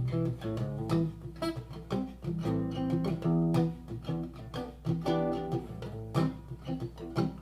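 Acoustic guitar played solo, a plucked and strummed chordal passage, as an instrumental interlude without singing.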